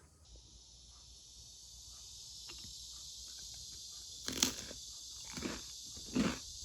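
A chorus of summer cicadas makes a steady high-pitched buzzing hiss that fades up early on. From about four seconds in, a few loud crunches come roughly once a second, like crisp food being bitten or cut.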